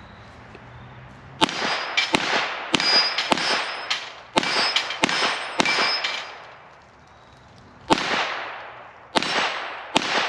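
A .22 LR Volquartsen Black Mamba pistol firing about a dozen rapid shots at a steel plate rack, with hit plates ringing after some shots. The shots come in a quick string, then after a pause of about two seconds three more.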